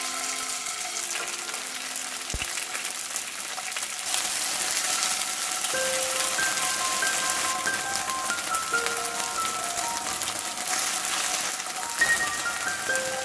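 Food frying in hot oil in a pan, a steady sizzling hiss, with background music playing a simple melody over it.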